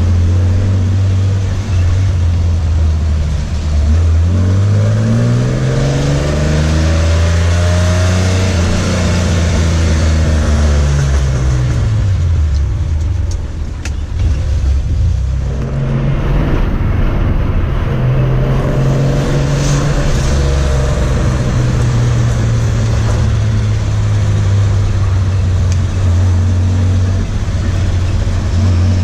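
Chevrolet Opala's engine heard from inside the cabin while driving. It revs up through the gears about four seconds in, eases off and drops back around eleven to thirteen seconds, then pulls up again and runs steadily.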